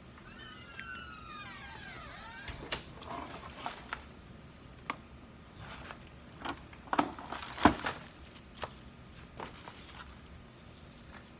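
A high warbling call with gliding pitch at the start, then irregular knocks and clatters, loudest about two-thirds of the way through, as soil and a potato container are handled during digging.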